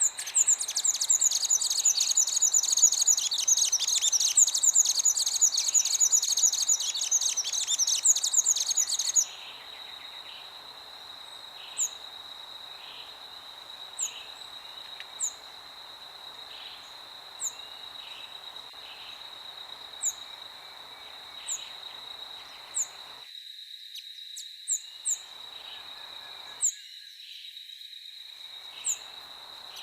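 Nature ambience of birds and insects. A loud, rapid high buzzing trill stops about nine seconds in. A steady high insect trill continues under short, sharp bird chirps every second or two, over a faint hiss of wind.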